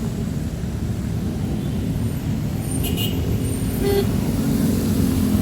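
Road traffic in the rain: a steady low rumble of passing vehicle engines that grows a little louder toward the end, with two brief high squeaks near the middle.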